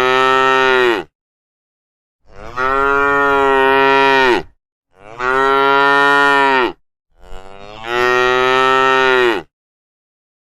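Cattle mooing: one call ends about a second in, followed by three long, steady-pitched moos of about two seconds each with short silent gaps between them.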